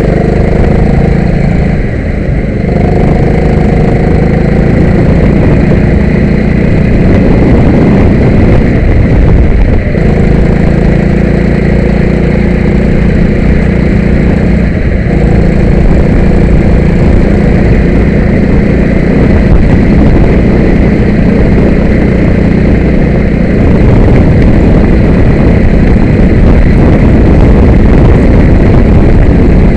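Kart engine running hard, its pitch rising and falling as the throttle opens and closes.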